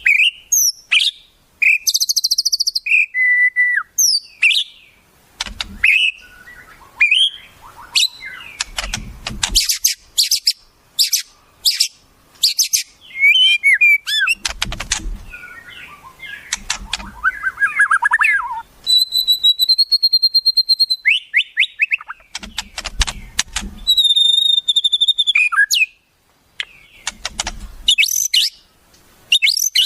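Wild songbird song: a fast, varied string of sharp chirps, clicks, whistled slurs and trills, with two long held high whistles about two-thirds of the way through and occasional low thumps underneath.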